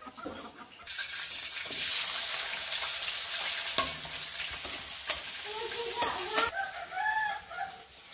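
Sliced onions sizzling in hot oil in a steel kadhai, with a few sharp metal clanks; the sizzle starts about a second in and cuts off suddenly past the middle. A rooster crows in the second half.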